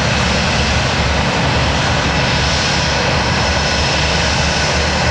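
Jet airliner's engines running loud and steady, with a faint high whine above the noise.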